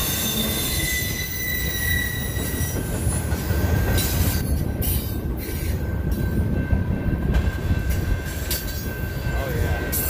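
Freight train cars rolling past over a steady low rumble, with steel wheels squealing in thin high tones, most strongly in the first few seconds.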